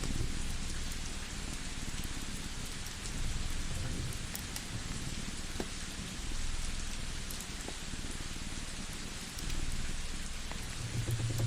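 Cat purring in slow swells that come back every few seconds, over a steady rain-like hiss. A wood fire crackles with scattered sharp pops, more of them near the end.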